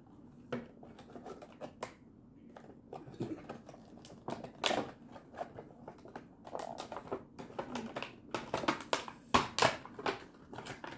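A toy truck's packaging being opened by hand: irregular rustling, scraping and sharp clicks, busiest in the second half.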